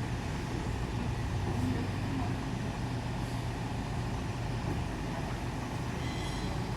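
A steady low machine hum with a brief high-pitched whine near the end.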